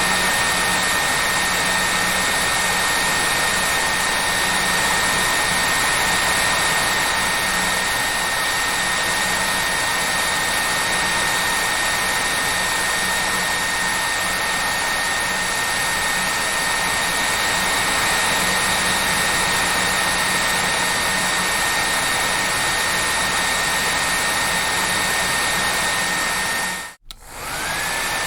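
Hair dryer running steadily: an even rushing hiss of air with a high motor whine. Near the end it cuts out for a moment, then comes back with the whine rising back up to its pitch.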